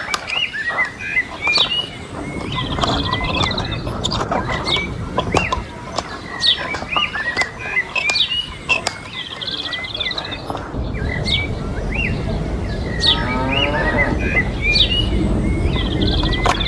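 Small birds chirping over and over in short calls, among scattered sharp clicks and a low rumble that grows louder about halfway through.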